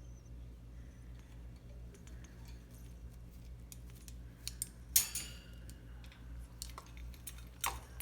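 Scattered light ticks, then two sharp metallic clinks with a short ring: the louder one about five seconds in and another near the end.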